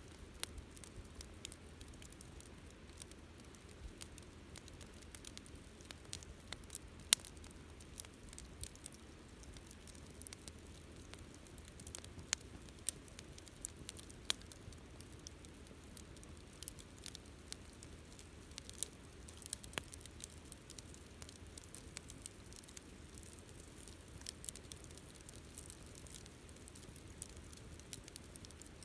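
Wood bonfire crackling: irregular sharp pops and snaps over a faint, steady rush of burning, with one louder pop about seven seconds in.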